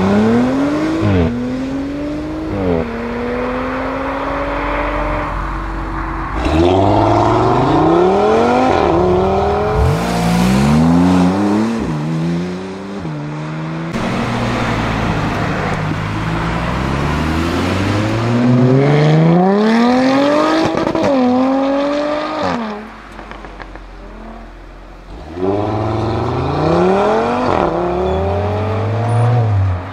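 Several performance cars, among them an Audi RS5 and an Audi RS3, accelerating hard one after another. In each run the engine rises steadily in pitch and drops sharply at quick upshifts, then climbs again. The sound dips for a couple of seconds between two of the runs.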